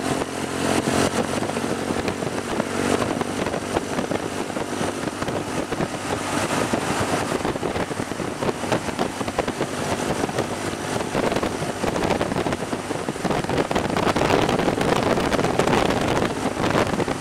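Motorcycle running on the move, its engine tone under a steady rush of wind noise over the microphone.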